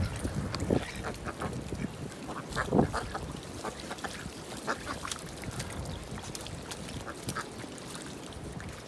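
Ducks quacking: a scatter of short calls, one louder call about three seconds in, over a low steady rumble.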